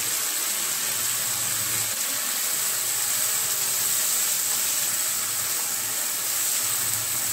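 Chopped tomatoes, onions and garlic sizzling in hot oil in a non-stick kadai while a spatula stirs them: a steady frying hiss.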